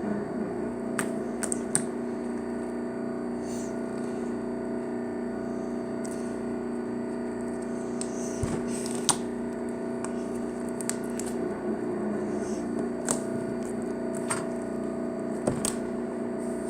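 Slime being squished and poked, giving scattered short clicks and pops over a steady low hum.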